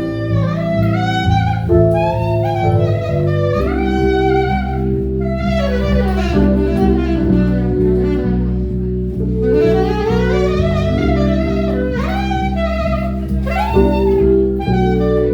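Instrumental music in a jazz style: a lead line with bending, sliding notes over held bass and chord tones.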